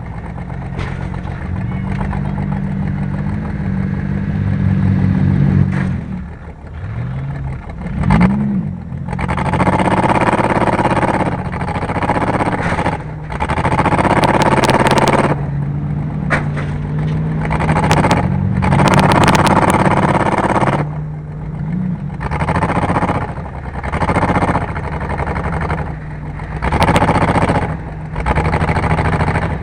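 Car engine racing, revving up and easing off over and over, with repeated loud bursts of rushing noise.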